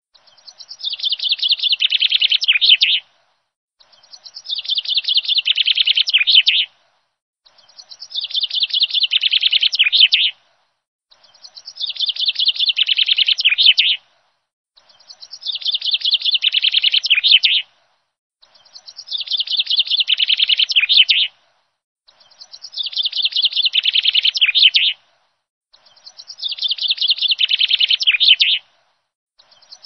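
Songbird chirping: a phrase of rapid chirps about three seconds long that builds in loudness and cuts off sharply, repeated identically about every three and a half seconds with silence between, like a looped birdsong recording.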